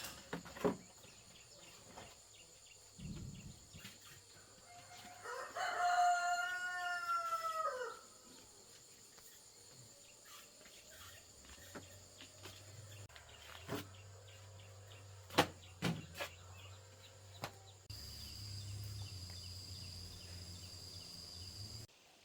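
A rooster crowing once, a single arching call of about two and a half seconds. Several sharp knocks follow later.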